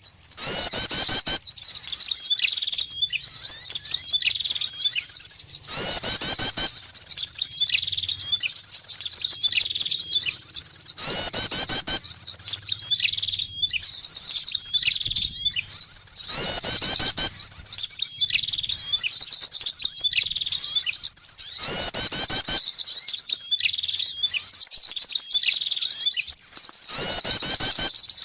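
Recorded bird lure calls: dense, rapid, high-pitched chirping and trilling of small songbirds such as prinias and sunbirds, with a louder burst roughly every five seconds.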